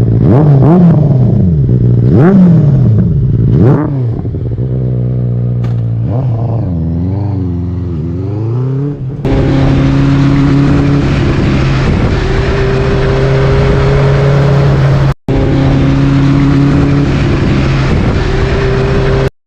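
Benelli TNT 600i's inline-four engine revved in quick blips, its pitch rising and falling several times, then after an abrupt change running at a steady engine speed.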